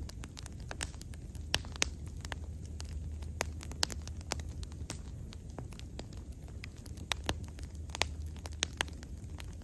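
Wood bonfire burning, with frequent irregular sharp crackles and pops over a steady low rumble of the flames.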